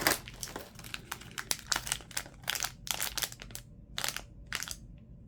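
Packaging crinkling and crackling in irregular handfuls as a small advent-calendar compartment is opened and its wrapped item, a car air freshener, is handled.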